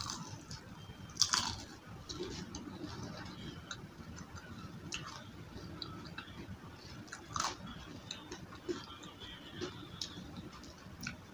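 A bite into a crunchy battered onion ring about a second in, followed by steady chewing with scattered crisp crackles.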